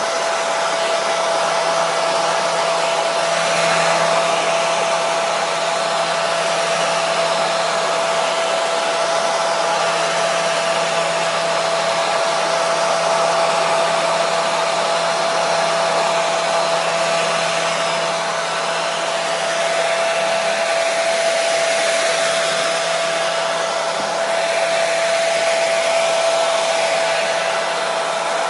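Electric hair dryer running continuously: a steady airflow rush with a constant motor whine, used as white noise to calm a colicky baby.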